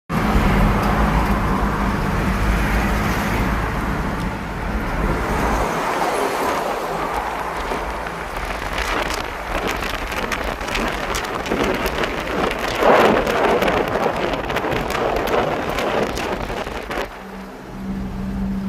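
An engine running steadily under a loud rushing noise; the engine's low hum drops away about six seconds in and comes back near the end.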